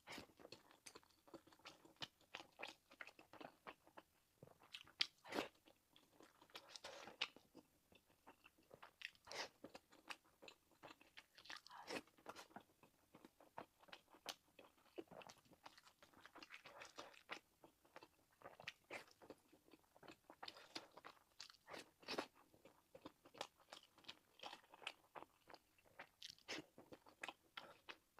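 A person chewing and biting food with the mouth: irregular wet clicks and crunchy crackles, several a second, with a few louder bites scattered through.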